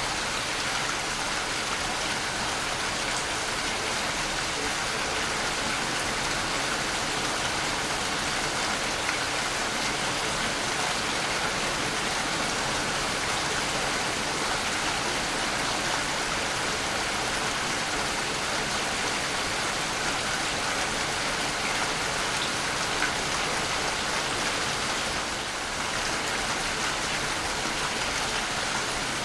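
Waterfall: falling water rushing and splashing in a steady, even roar.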